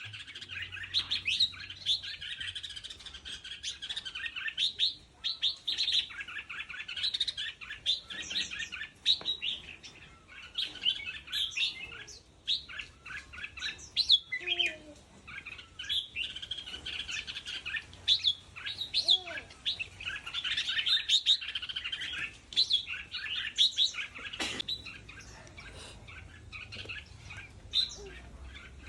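Hybrid sooty-headed × red-whiskered bulbul (F2 cross) singing: a fast, continuous run of chirping notes, with brief lulls now and then.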